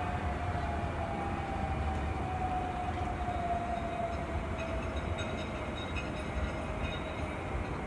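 CAF Urbos AXL tram running over a steady low rumble, its electric drive whining in a tone that falls slowly and steadily in pitch as the tram slows.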